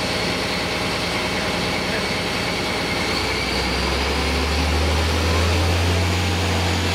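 Heavy diesel engine of a concrete pump truck running steadily. About three and a half seconds in, a deep, slightly louder hum comes in and holds.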